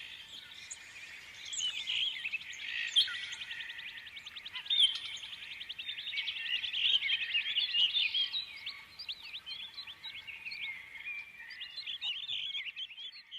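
Many small birds chirping and calling over one another in a dense chorus, with a fast trill about three to five seconds in; it fades out at the very end.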